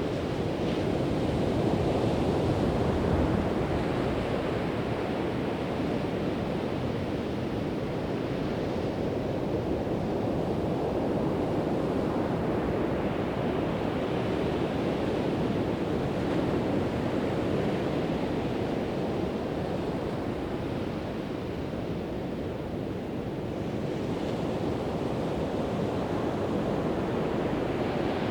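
Pacific Ocean surf breaking and washing up the beach: a continuous rushing noise that swells and eases slowly with the waves.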